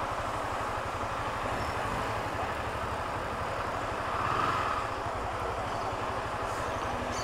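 Honda CB Twister 250's single-cylinder engine running steadily, an even low pulsing under street noise, swelling slightly about four seconds in.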